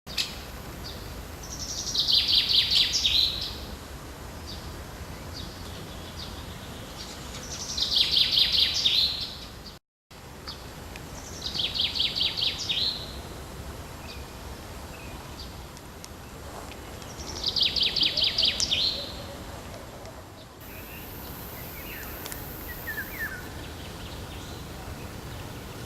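A songbird singing a short, rapid trilled phrase four times, several seconds apart, over steady low background noise, with fainter bird calls near the end. The sound cuts out briefly about ten seconds in.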